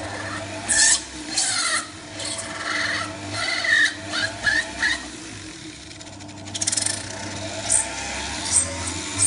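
Power drill running steadily while drilling out a hole in a car front grille, with repeated high squeals as the bit cuts and a short rattle partway through.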